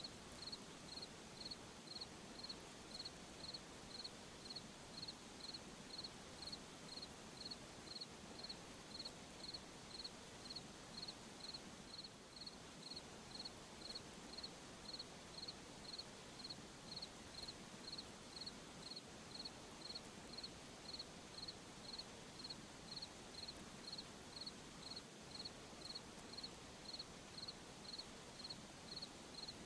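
Crickets chirping at night in a steady, even rhythm, a little under two chirps a second, over a faint even hiss.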